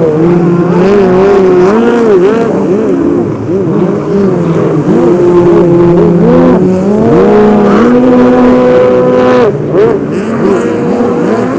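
Several stand-up racing jet skis running at speed, their engines rising and falling in pitch as the riders work the throttle, with one engine holding a steady high note until about nine and a half seconds in.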